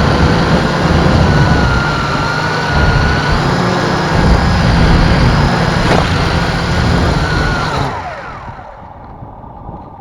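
MJX X101 quadcopter's electric motors and propellers whining steadily, with heavy wind buffeting on the microphone. About eight seconds in, the whine slides down in pitch and dies away as the motors spin down.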